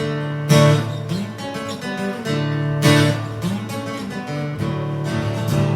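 Amplified acoustic guitar strumming the chords of a song's instrumental intro, with hard accented strokes about half a second in and again near three seconds.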